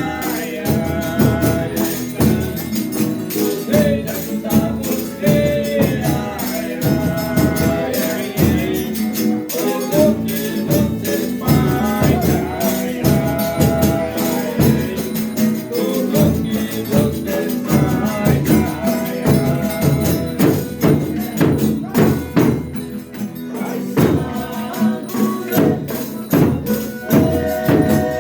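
Folia de Reis troupe singing together, accompanied by a steadily beaten tambourine and strummed viola caipira.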